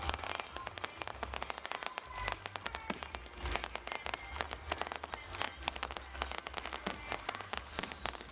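Fireworks crackling: a dense, rapid run of sharp pops and crackles, many a second, over a low rumble.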